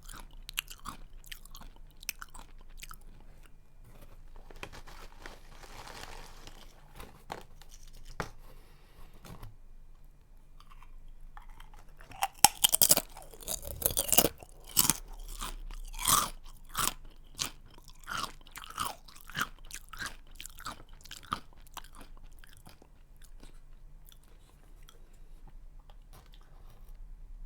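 A person chewing a crunchy snack: steady crackling chews, then a burst of loud crunches about halfway through as a new bite is taken, followed by regular crunching chews that soften toward the end.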